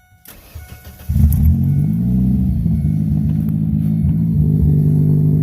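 Ford Focus engine starting about a second in, its revs flaring briefly and then settling into a steady idle around 1,000 rpm. It runs loud through the open exhaust, with the muffler and resonator removed.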